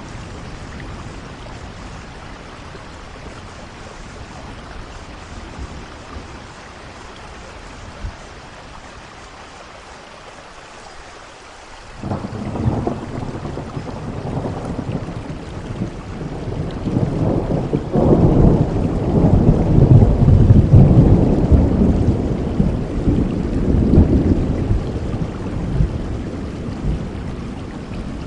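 Steady rainfall, with a long roll of thunder that comes in suddenly about halfway through, swells to its loudest a few seconds later and slowly dies away near the end.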